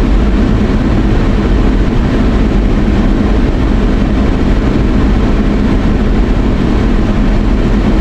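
Steady road and engine noise heard from inside a moving car's cabin, a constant low rumble with no change in pace.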